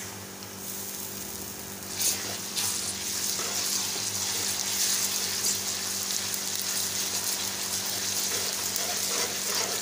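Sliced onions frying in hot oil in a metal pan, a steady sizzle that gets louder about two seconds in and then holds.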